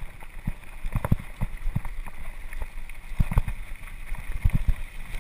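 Mountain bike descending a rough downhill trail: a steady low rumble of tyres and wind on the microphone, broken by frequent irregular knocks and rattles as the bike hits bumps.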